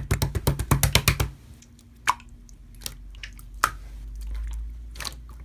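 Slime being squeezed and pressed by hand: a quick run of wet clicks and pops in the first second or so, then scattered single pops.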